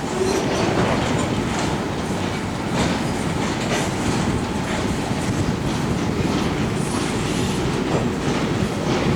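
Empty coal train rolling past, its hopper cars rattling and the wheels clacking over rail joints in an uneven run of clicks.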